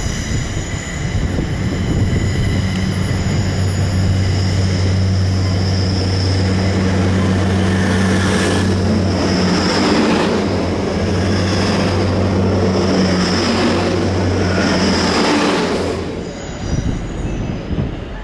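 Passenger train running slowly past on a curved platform road, with a steady low engine hum, high wheel squeal and the rushing noise of wheels and bogies going by in swells, loudest about halfway through. The sound drops away suddenly about two seconds before the end, leaving a quieter train approaching.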